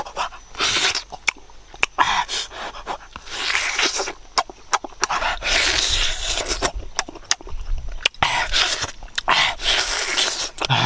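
Close-up sounds of a person eating: wet chewing and smacking with many sharp mouth clicks, broken by repeated hissing, breathy stretches about a second long.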